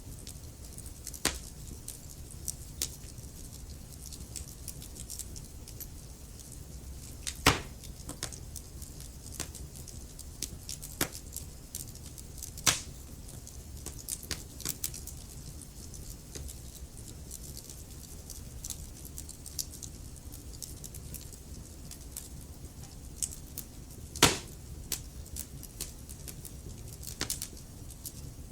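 Wood fire burning in a fireplace: a low steady rumble of flames with irregular crackles and pops from the burning logs, the sharpest snaps coming at about 7 seconds, 13 seconds and 24 seconds.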